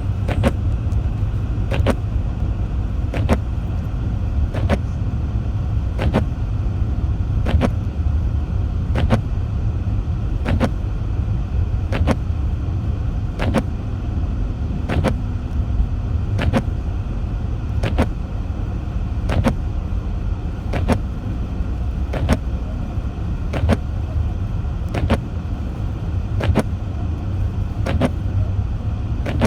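A car driving on a snowy road, heard from inside the cabin as a steady low rumble. A sharp click repeats at an even pace about every one and a half seconds.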